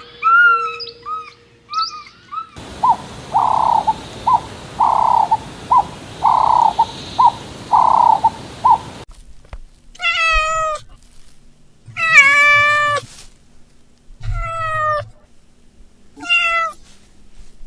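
Domestic cat meowing four times, falling meows about two seconds apart, in the second half. Before it comes a run of short repeated animal calls over a steady hiss, and at the very start a few brief chirps.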